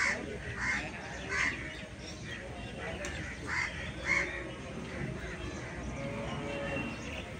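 A bird calling in short, repeated calls: three about two-thirds of a second apart at the start, then two more near the middle, over a steady low background noise.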